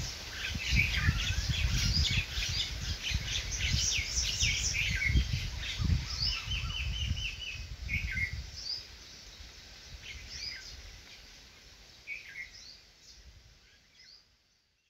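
Small birds chirping, with a low rumble underneath for the first half; the sound fades out toward the end.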